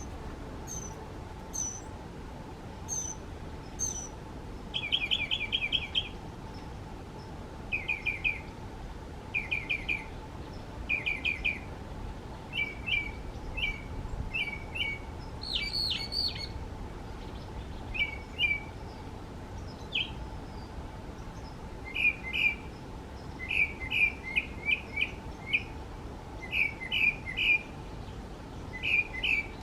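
Northern mockingbird singing, each short phrase repeated several times in quick succession, with thin high notes in the first few seconds.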